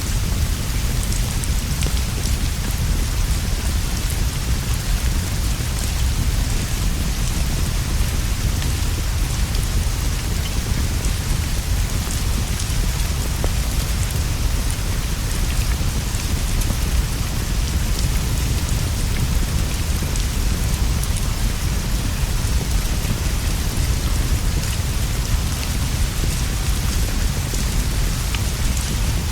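Steady heavy rainfall on leaves and a straw roof: an even hiss with many faint scattered drop ticks over a constant deep rumble, unchanging throughout.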